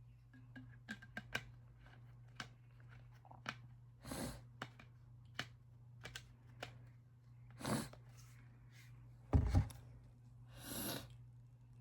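A person sniffling, with a noisy sniff or breath about every three seconds, amid small mouth clicks and handling sounds while eating. A loud dull thump comes about nine seconds in, over a steady low hum.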